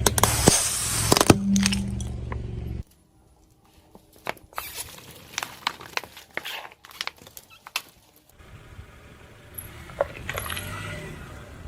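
A car's engine running as its tyre rolls over and crushes brittle objects, with many sharp cracks and snaps. About three seconds in the engine sound cuts out, leaving scattered crackles and snaps. The engine hum returns with more crackling near the end.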